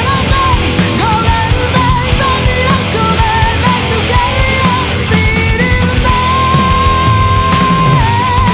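Heavy metal band playing: a lead guitar melody with pitch bends over distorted guitars, bass and drums, holding one long note for about two seconds before dropping and wavering near the end.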